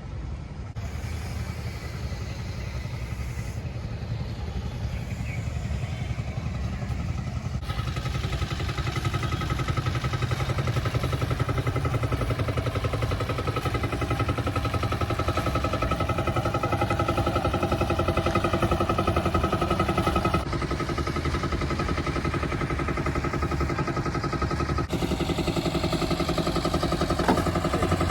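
An engine running steadily, with a constant hum and a strong low rumble. It gets gradually louder, and its sound changes abruptly a few times.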